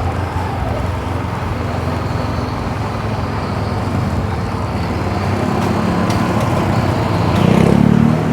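Motorbike engine running while riding, with road and traffic noise around it; the engine gets louder about seven seconds in, then drops back near the end.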